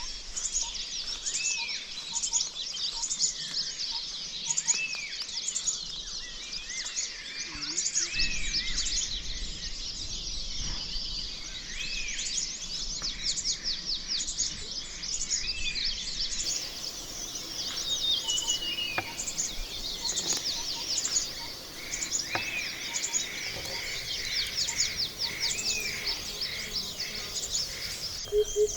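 Several birds chirping and singing continuously in a rapid, high-pitched chorus, with one short arching call repeating about once a second.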